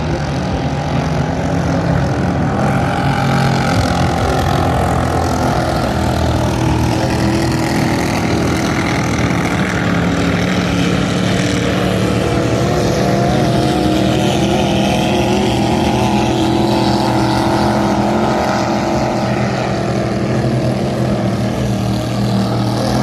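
Vintage racing speedboats running at speed on the river: a loud, continuous engine drone whose pitch slowly wavers and glides as the boats race past.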